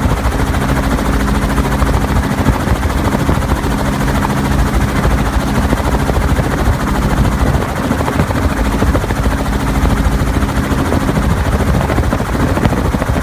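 Helicopter in steady flight: loud, continuous rotor and engine noise with a low, steady hum.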